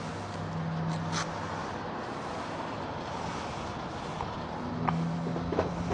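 Steady vehicle engine hum and traffic noise, with a few short clicks about a second in and again near the end.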